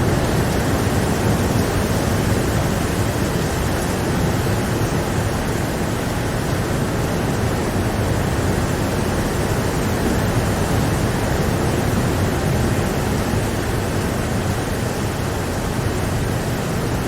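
Steady, even rain noise, a constant wash with no single drops or thunder standing out.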